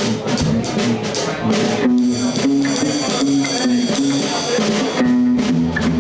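Live blues band playing a shuffle, with a drum kit keeping a steady beat under guitar and bass.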